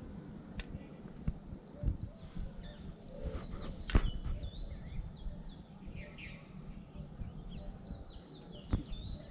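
Small birds chirping, many short high chirps one after another, over a low rumble. A sharp click or knock stands out about four seconds in, with another near the end.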